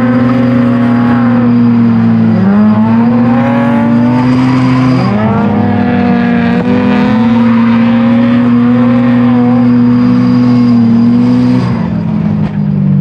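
Mazda FC RX-7's naturally aspirated 13B rotary engine held at high revs while drifting, briefly dipping and climbing again twice, then falling off as the throttle comes off near the end.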